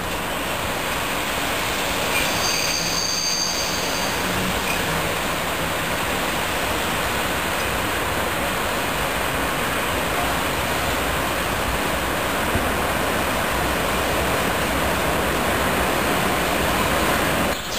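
Freight train hauled by an FS E.655 electric locomotive rolling round a curve, a steady rumble of wheels on rail, with a brief high-pitched wheel squeal about two to three seconds in.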